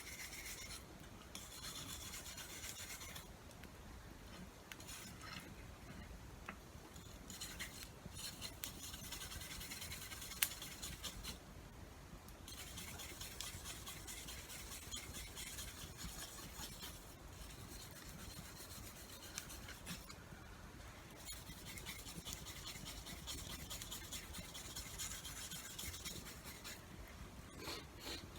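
A tool being sharpened by hand with continuous rasping strokes, in runs broken by short pauses.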